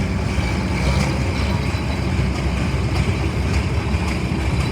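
Tractor engine running steadily, with its sound concentrated low in pitch.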